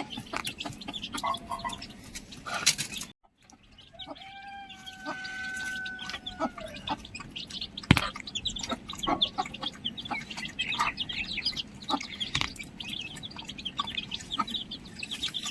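Chickens clucking and small birds chirping, with many short sharp ticks. About four seconds in, after a brief drop to silence, a single long held call of about three seconds, likely a rooster crowing.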